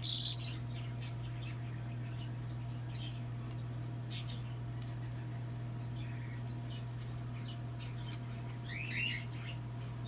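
Baby bird's high begging chirps and squeaks while it is being hand-fed: scattered faint chirps, with a louder cluster of rising chirps about nine seconds in, over a steady low hum.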